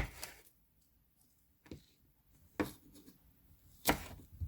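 Kitchen knife cutting a large red chili pepper on a cutting board: a few separate knocks spaced about a second apart.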